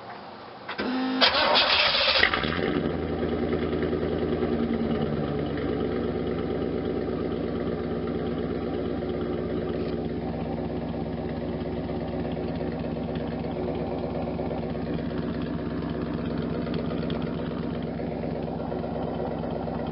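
1992 Camaro Z28's stock L98 350 V8 started with the muffler removed: a brief crank about a second in, the engine catches with a loud flare, then settles into a steady idle through the open, muffler-less exhaust.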